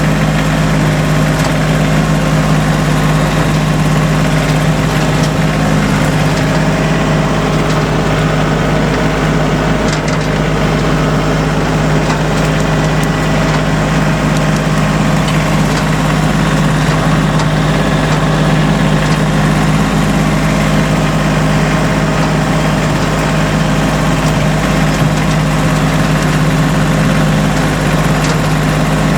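An engine running at a steady speed, an unchanging low drone.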